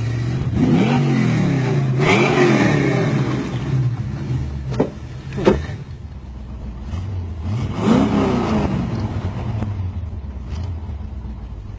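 V8 engine idling with a low rumble and revved several times: three rises and falls of about a second each, and two short sharp blips in the middle.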